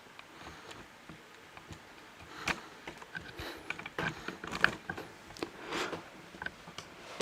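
Handling noise from a camera being set up: scattered clicks, taps and rustles, busier in the second half.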